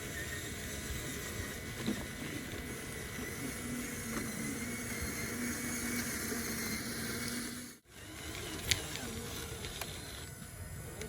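Steady machinery noise, likely the engines of a dump truck and excavator at work, with a low steady drone through the middle. The sound cuts out abruptly for a moment about eight seconds in, then resumes, with a single sharp knock soon after.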